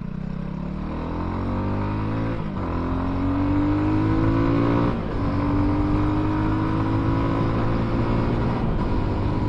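Benelli Leoncino 250's single-cylinder engine accelerating out of a tight bend, its pitch rising steadily, with two upshifts about two and a half and five seconds in, each briefly dropping the pitch before it climbs again.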